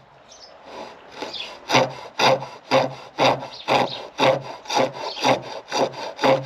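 Chestnut wood being cut in rhythmic strokes on a pole lathe, about two strokes a second, after a short pause at the start.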